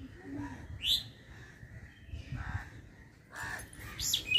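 Birds calling outdoors: short, sharp, rising chirps, one about a second in and a couple more near the end, with rougher calls in between, over a low steady background noise.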